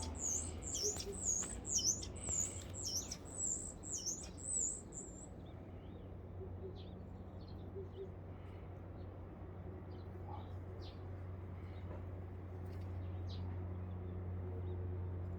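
A small bird chirping in a quick, even series of high, dipping notes, about two a second, that stops about five seconds in; fainter scattered chirps follow. A steady low hum lies underneath.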